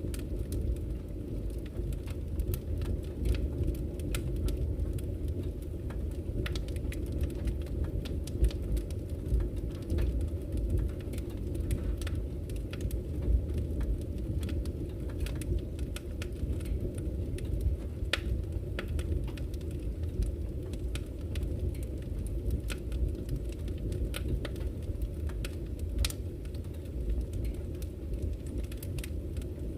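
Campfire crackling with irregular sharp pops and snaps, over a steady low rush of flowing river water.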